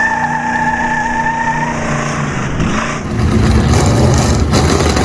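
A car: a high, steady squeal fades out about two seconds in, then a loud, low engine rumble takes over from about three seconds in.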